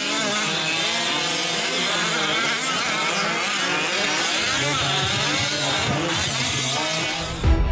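Several 5th-scale gas RC trucks' small two-stroke engines revving and easing off as they race around the track, many pitches rising and falling over one another.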